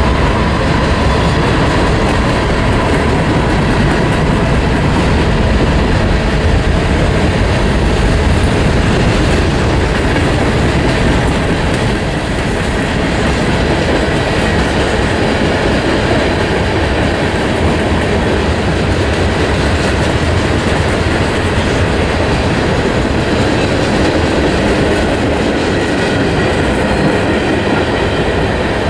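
Cars of a Norfolk Southern mixed freight train, covered hoppers, tank cars and boxcars, rolling past at close range: a steady, loud running of steel wheels on the rails.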